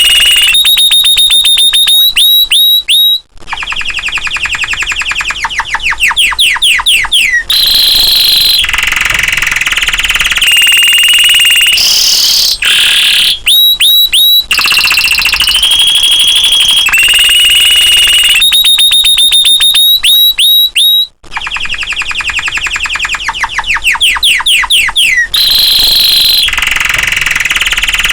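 Domestic canary singing continuously and loudly: a long song of rapid trills, fast runs of repeated notes and held high whistles, with a couple of brief pauses.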